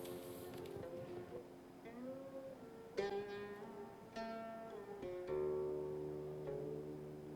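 Background music on a plucked string instrument: single notes struck about a second apart and left to ring, with a deeper sustained note entering about five seconds in.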